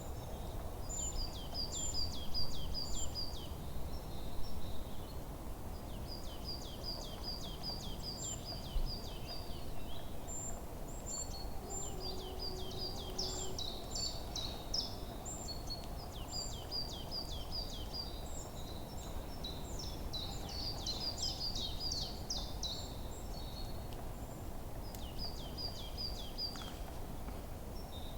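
Forest birdsong: songbirds singing phrases of quick, high, down-slurred chirps every few seconds, sometimes overlapping, over a steady low rumble of background noise.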